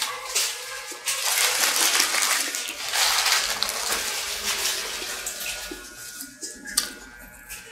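Close-up chewing of a crispy breaded chicken nugget: dense crunching and wet mouth sounds with small clicks, loudest in the first few seconds and fading toward the end.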